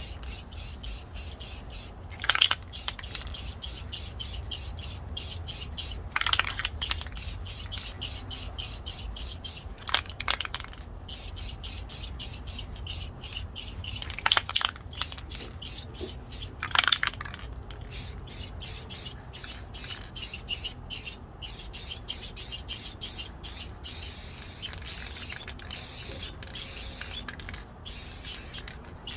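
Aerosol can of matte clear sealer sprayed in short bursts, about five times, to wet and seal a sawdust coating, over a faint, fast, steady ticking.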